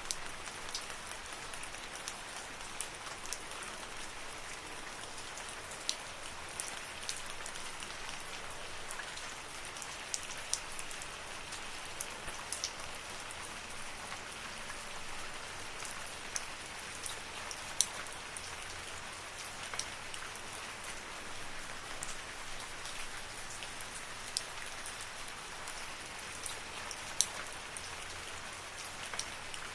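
Steady rain falling in a forest: an even hiss of rainfall with frequent sharp, close drips of individual drops landing on leaves and surfaces.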